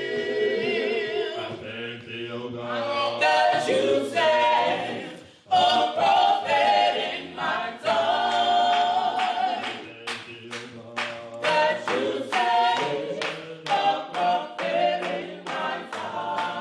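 A cappella gospel choir singing, many voices in harmony without instruments, with sharp claps keeping a steady beat, more clearly in the second half.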